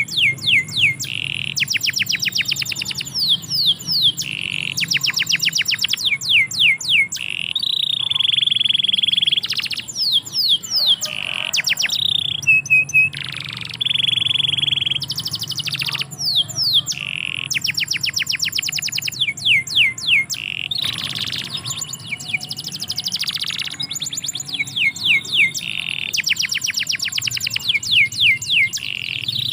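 Domestic canary singing a continuous song of rapid trills, fast runs of repeated sweeping notes, alternating with long held whistled tones lasting a second or two.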